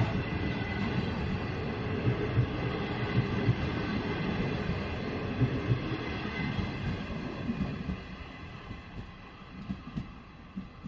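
Slow passenger train at the station: a steady running hum with several held high tones and irregular low knocks, fading away after about eight seconds.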